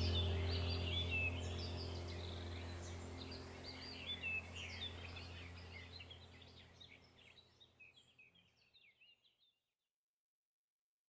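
Birds chirping over a low steady hum, both fading out to silence about seven or eight seconds in.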